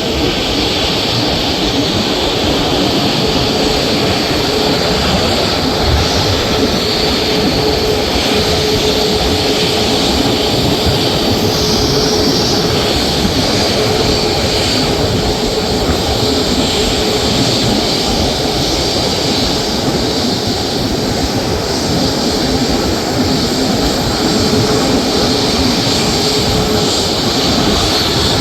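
Aircraft engines running steadily at low power, a dense unbroken rush of noise with a faint steady tone through it.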